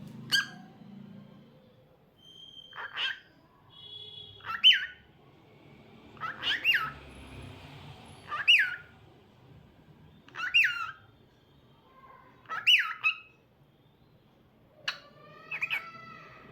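Cockatiel calling. Short chirping calls come about every two seconds, each sweeping up and down in pitch, and a couple of whistled notes follow near the end.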